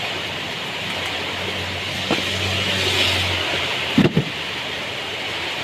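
Heavy rain falling in a steady hiss, with a low hum for a couple of seconds and a sharp double knock about four seconds in.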